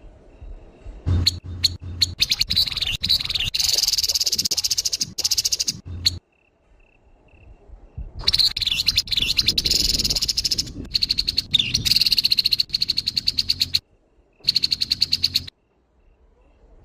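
Grey-headed babbler giving its harsh call: fast, buzzy, chattering rattles in three bursts, the first two each several seconds long and the last about a second.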